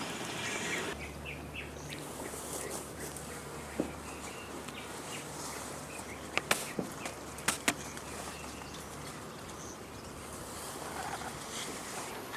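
Forest ambience: a steady hiss with scattered short bird chirps. A few sharp clicks stand out about six and a half and seven and a half seconds in.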